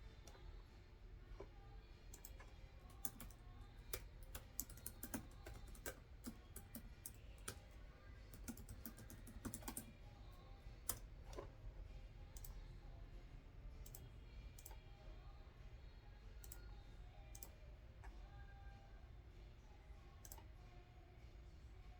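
Quiet typing on a computer keyboard, with a quick run of key clicks in the first ten seconds or so, then scattered single clicks.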